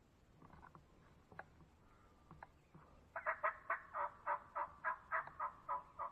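A series of about a dozen turkey yelps, evenly spaced at about four a second, starting about halfway in, after a few faint ticks.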